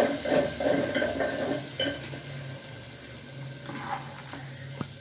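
A spoon stirring seeraga samba rice boiling in water in an open pot, scraping and clinking against the pot for about the first two seconds, then settling to a quieter steady bubbling with one sharp click near the end; the rice is about three-quarters cooked.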